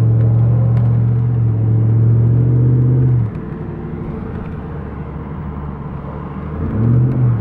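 Car engine running loud and hard for about three seconds, then suddenly backing off; near the end a short second rev rises in pitch.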